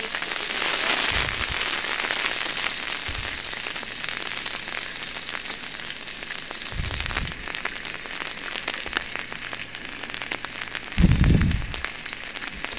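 Green chillies and chopped onion frying in hot oil in a large iron karahi: a steady sizzle full of small crackles. A few dull low thumps come through it, the loudest near the end.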